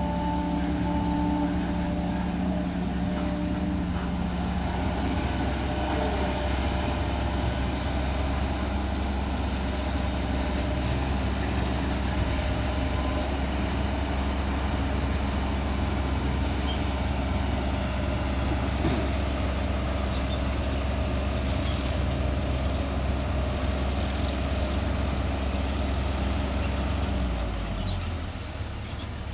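Heavy diesel machinery running steadily with a low engine drone, easing off a little near the end.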